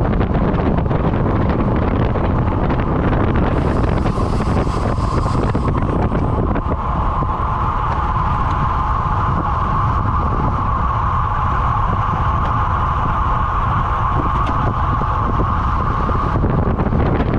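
Wind buffeting a moving microphone in a loud, steady rumble. A steady mid-pitched hum joins it about seven seconds in and drops away near the end.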